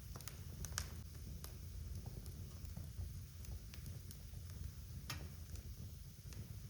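Wood fire burning in a fireplace, crackling with irregular sharp pops over a low steady rumble of the flames; the loudest pops come just under a second in and about five seconds in.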